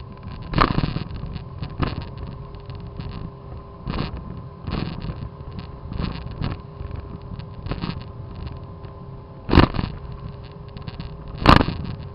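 Motor skiff running at speed, its motor giving a steady whine under the hull's rumble, with the hull thumping on the chop every second or two. Two louder thumps come near the end.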